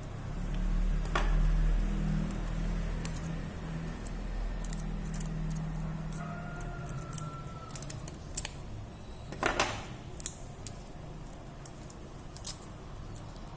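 Scattered small hard clicks and taps of tools and phone parts being handled on a workbench, with a short denser rattle about nine and a half seconds in. A low hum runs underneath, louder in the first few seconds.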